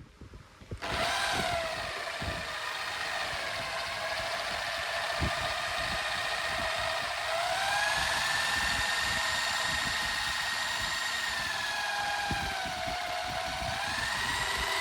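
Metalworking power-tool motor running with a steady whine that sags and recovers in pitch several times, as under changing cutting load, over a scratchy crackle of the cut.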